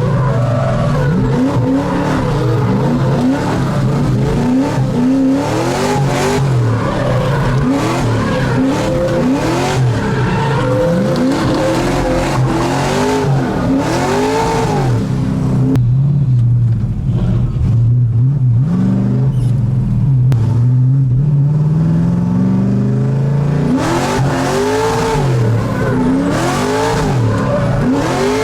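LS3 V8 in a swapped Mazda Miata revving up and down over and over while drifting, with tyre noise and some squeal. About halfway through the tyre noise drops away and the engine holds one slowly rising note for several seconds. Then the rapid revving resumes.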